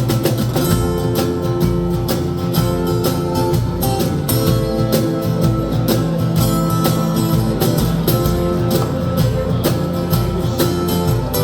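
Rock band playing live: electric guitars over bass and drums keeping a steady beat.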